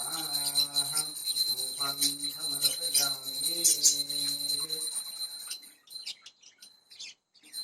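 A man's voice chanting a Sanskrit puja hymn in long, drawn-out notes over a constant high ringing. The chant stops about five seconds in, leaving only faint high ringing.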